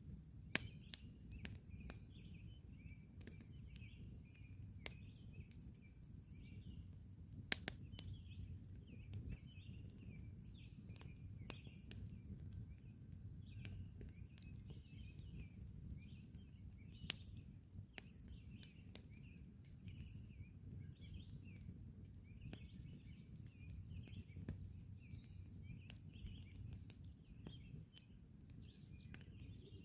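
Wood campfire crackling with scattered sharp pops, the loudest about seven and seventeen seconds in, over a steady low rumble. Birds chirp continuously in the background.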